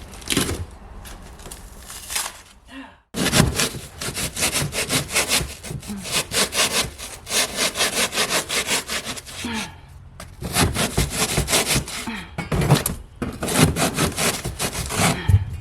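Hand saw cutting in quick back-and-forth strokes, trimming material down flush; the sawing stops briefly about three seconds in and again about ten seconds in.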